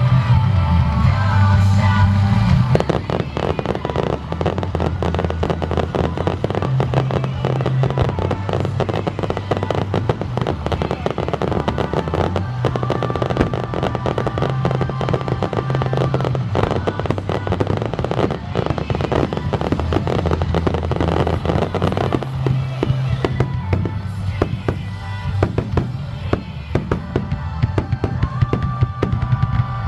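A dense barrage of fireworks: many bangs and crackles close together, thickening about three seconds in and thinning out near the end, over music with low sustained notes.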